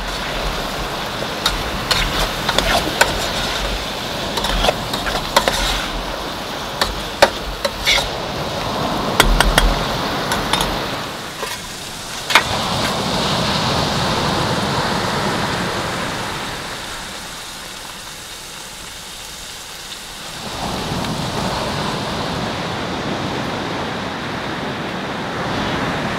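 Chopped vegetables sizzling in oil in a pot on a camp stove, with many sharp clicks of a utensil stirring against the pot. About halfway through, hot saffron water is poured from a kettle into a pot of rice. After a quieter spell, a steady rush of ocean waves and wind follows.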